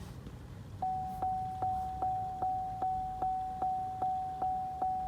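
A steady electronic beep tone with a regular tick about two and a half times a second, starting about a second in: a car's warning chime going while a new tune is written to the turbo Chevy Cruze's engine computer.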